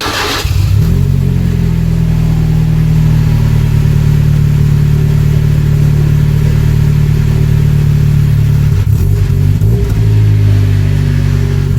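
GAZ-24 Volga's engine running through an aftermarket straight-through exhaust, a loud steady exhaust note held at even revs, with a brief change in pitch about nine seconds in.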